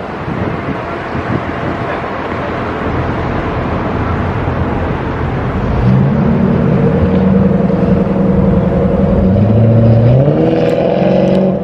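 A motor vehicle driving: steady road and rushing noise, with an engine hum that comes in about halfway through and rises in pitch as the vehicle speeds up near the end.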